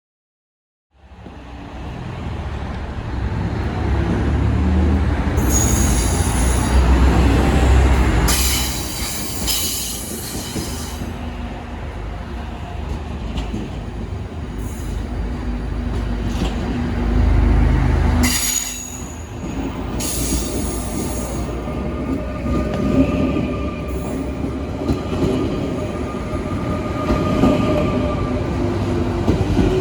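DSB IC3 diesel and IR4 electric multiple units moving through a station with a low rumble, their wheels squealing high-pitched several times, loudest about six to eleven seconds in and again around eighteen to twenty-one seconds. Later, steady tones sound over the rumble.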